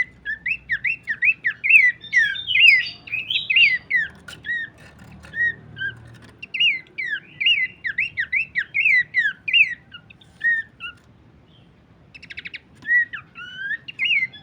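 Pelanduk semak (Horsfield's babbler) calling: rapid series of sharp, down-slurred whistled notes, several a second, broken by a short pause and a brief buzzy rattle near the end.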